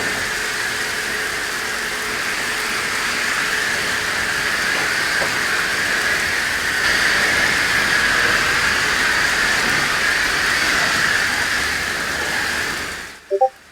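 Car wash water spray hissing steadily against the car. It cuts out briefly near the end, with a couple of short chirps in the gap, then resumes.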